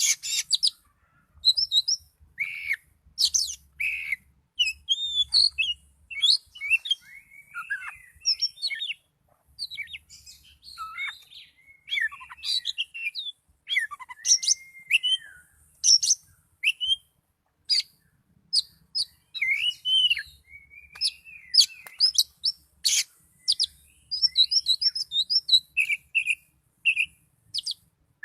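Oriental magpie-robin (kacer) singing a varied song of short whistled notes, sharp chips and quick up- and down-slurred phrases, with brief pauses between phrases.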